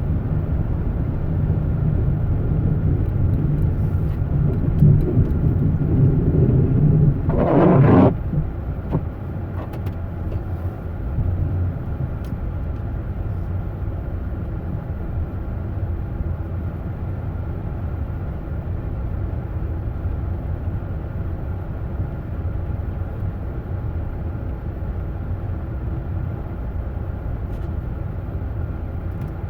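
Steady low engine rumble, with a brief louder rush of noise about eight seconds in.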